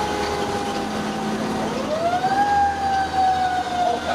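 Fire engine siren wailing over the truck's engine rumble: the pitch slides slowly down, then sweeps up quickly about halfway through and begins sliding down again.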